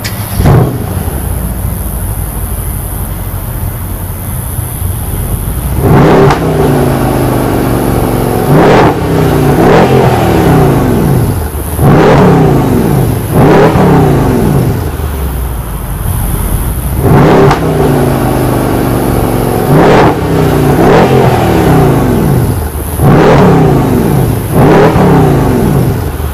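Mercedes-AMG CLS 63 S's 5.5-litre twin-turbo V8 running steadily, then revved in a series of about a dozen sharp throttle blips from about six seconds in, each falling back in pitch.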